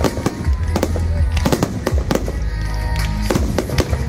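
Fireworks display: shells bursting in a rapid run of bangs and crackles, with music playing under them.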